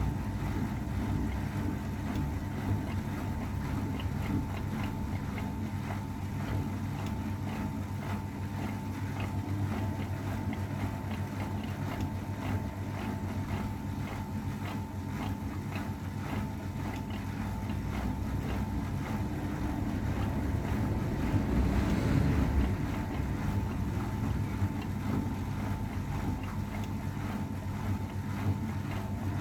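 AEG Öko-Lavamat 693 washing machine running mid-cycle: a steady motor hum while the drum turns the laundry and water sloshes, swelling briefly about two-thirds of the way through.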